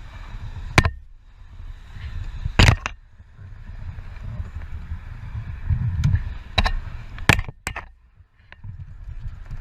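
Low rumble of a moving vehicle, broken by several sharp knocks or impacts, the loudest about two and a half seconds in.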